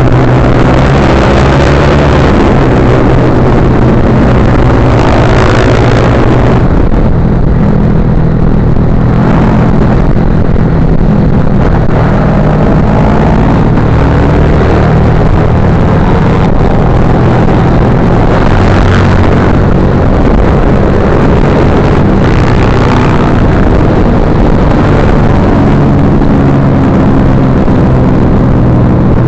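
Motorcycle engine running steadily, its pitch rising and falling now and then as the revs change, under a constant rush of wind and road noise.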